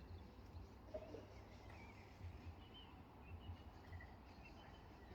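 Faint birdsong: scattered short chirps from small birds, over a low rumble.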